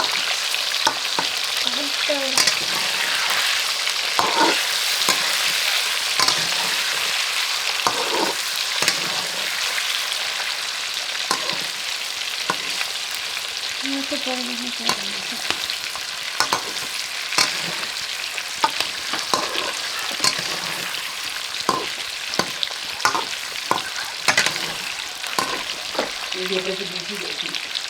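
Food frying in hot oil in a pan with a steady sizzle, stirred with a metal ladle that scrapes and knocks against the pan at irregular moments.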